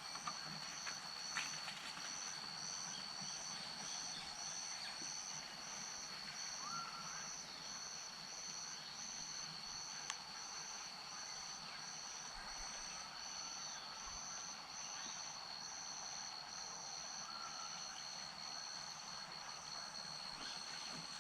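Chorus of frogs and insects in wetland: one continuous high-pitched whine alongside a second high call pulsing evenly about once or twice a second, with a few short rising calls now and then, over a soft wash of background noise.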